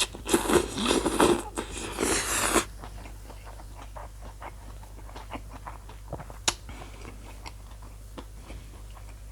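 Mouth noises of eating a spicy mee sua noodle salad: a loud, noisy slurp of noodles for about two seconds at the start, then quieter chewing with small wet clicks and one sharper click about six seconds in.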